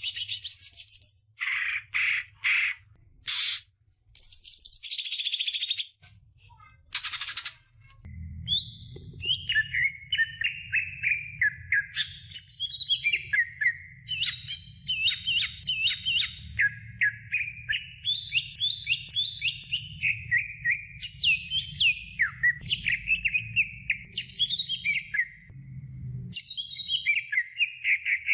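Cucak hijau (green leafbird) singing. For the first several seconds it gives separate harsh, scratchy bursts; then it runs into a long, rapid stream of varied whistled notes that sweep up and down.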